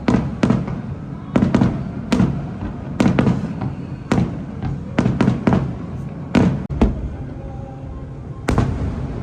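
Aerial fireworks shells bursting in quick, irregular succession: a dozen or more sharp bangs over several seconds, each trailing off in a brief echo.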